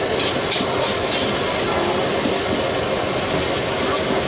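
Nasi goreng frying in a wok over a gas burner: a steady sizzling hiss.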